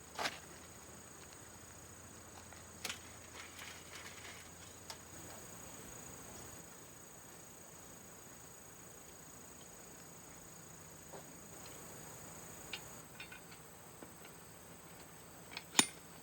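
Insects trilling steadily at a high pitch, with a few scattered light clicks and knocks, the loudest a sharp click near the end.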